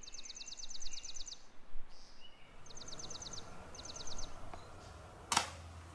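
A songbird singing rapid trills of high, quick notes over a faint outdoor hiss: one long trill at the start and two shorter ones later. A single sharp click comes near the end.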